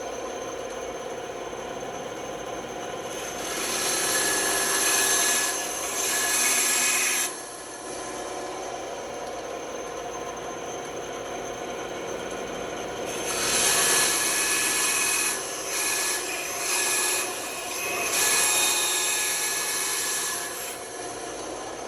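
Band saw running steadily, with louder, rougher stretches as the blade cuts into wood: once a few seconds in and again through much of the second half.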